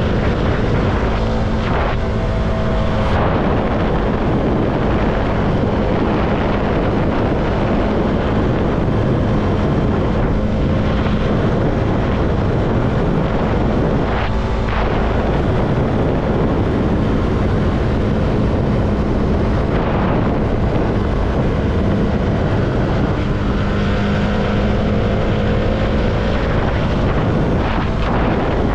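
CFMoto motorcycle engine running steadily while riding, mixed with wind and road noise. Its pitch shifts slightly in places with the throttle.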